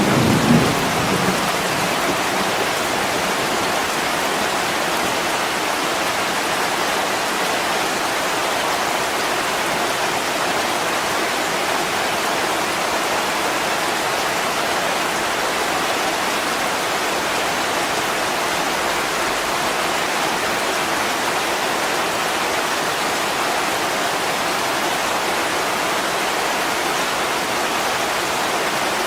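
Heavy rain pouring onto window glass: a steady, even hiss. The tail of a thunder rumble dies away in the first second or so.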